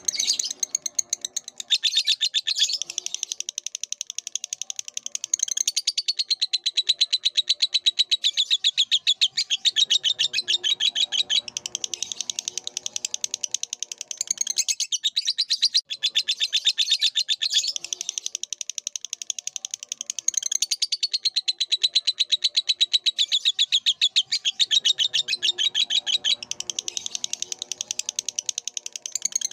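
Lovebird singing a long, continuous, rapid chattering trill of many high chirps a second, the drawn-out 'ngekek' song used as a training recording for other birds. Weaker lower-pitched calls sound underneath now and then.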